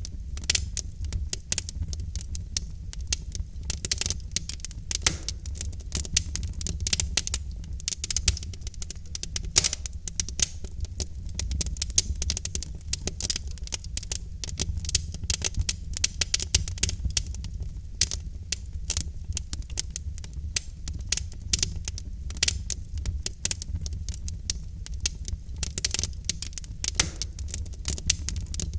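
Wood logs burning in a fireplace, crackling and popping in quick irregular snaps over a steady low rumble of the fire.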